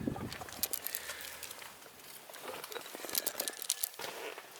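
Faint rustling with scattered light clicks.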